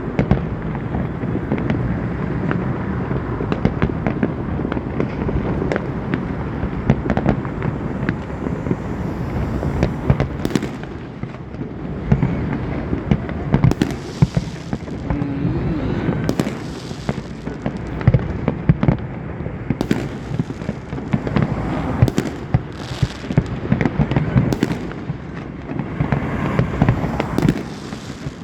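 Fireworks display: a dense, continuous barrage of bangs and crackles over a low rumble, with sharper reports standing out every second or so.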